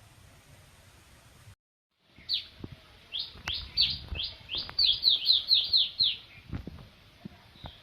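A bird chirping: a run of about a dozen short, falling chirps that come quicker toward the middle. Before it, a faint hiss cuts out to silence for about half a second.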